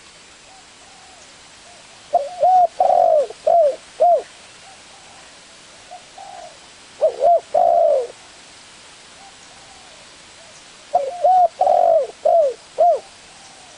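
Spotted dove (tekukur) cooing: three repeated song phrases, each a run of short arched coos with one longer note in the middle, a few seconds apart.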